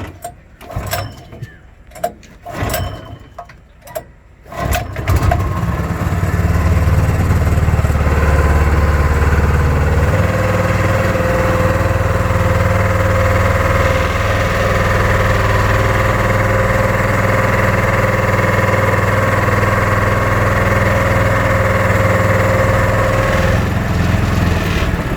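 Small petrol engine of a boat pump being started: several short sharp bursts, then it catches about five seconds in and runs steadily. Its speed shifts slightly about ten seconds in.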